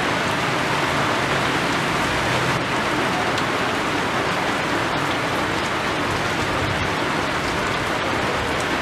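Steady rain falling: a dense, even hiss with scattered drop ticks.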